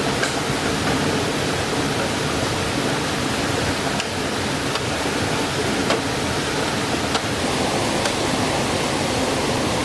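Steady rush of flowing water, with a few faint clicks scattered through it.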